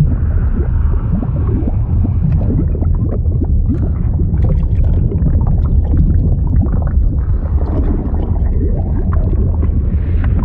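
Liquid sound effect of continuous bubbling and gurgling over a deep, steady rumble, like being underwater.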